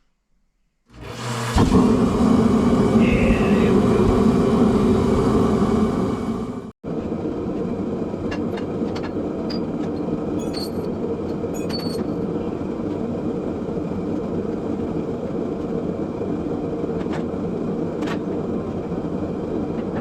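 A forced-air space heater (a 'blaster') lighting and running with a steady roar of fan and burner, starting about a second in. The sound breaks off for an instant a little under 7 s in and then carries on slightly quieter.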